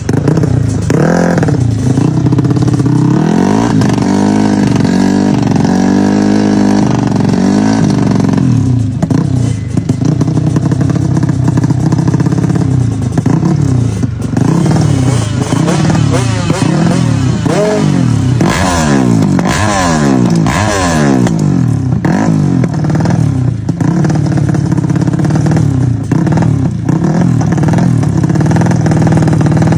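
Drag-racing motorcycle engines revved hard again and again, the pitch rising and falling about once a second, with more than one engine overlapping at times.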